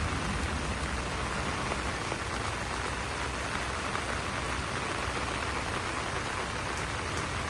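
Steady rain pattering on broad banana leaves, an even hiss with scattered drop ticks.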